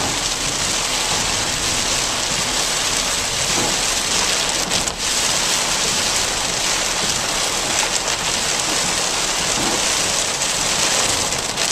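Heavy rain pelting a moving car in a thunderstorm: a steady, loud hiss of water, with a brief dip about five seconds in.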